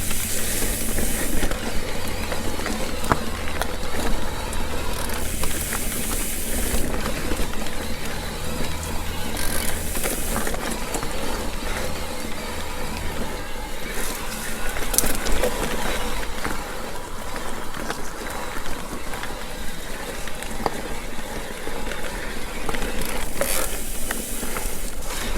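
Mountain bike rolling along a dirt trail: steady tyre and wind noise with a low rumble, scattered clicks and rattles from the bike, and a few short bursts of hiss.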